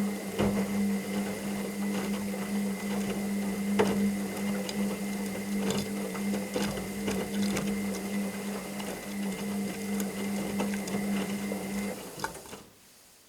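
Washing machine running with a steady motor hum, the load tumbling in the drum with irregular clicks and knocks; the motor stops abruptly near the end and the drum goes quiet.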